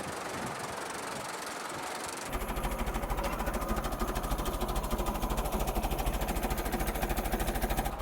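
1925 AutoCar truck engine running. A steady rushing noise lasts about two seconds, then a rapid, even pulsing beat of the engine comes in suddenly and grows louder.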